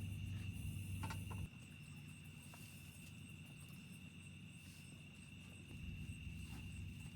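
Crickets chirring in a steady, high, even chorus. Under it a low rumble stops about a second and a half in and comes back near the end.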